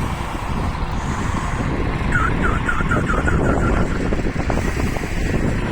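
Steady low rumble of a train moving at the station, with wind noise on the microphone. About two seconds in, a short warbling signal of about eight quick chirps sounds.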